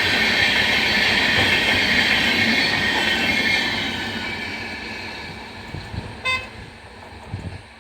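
Express train of LHB coaches passing at speed, its wheels on the track loud at first and then fading away over the last few seconds. A brief horn toot sounds about six seconds in.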